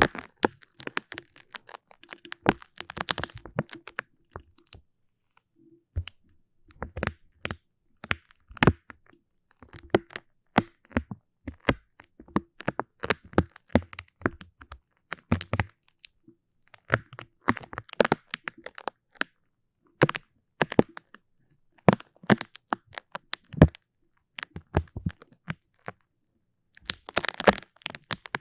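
Close-miked sticky crackling: a tacky material being pressed and pulled apart, giving irregular runs of crisp little cracks and tearing clicks with short pauses between.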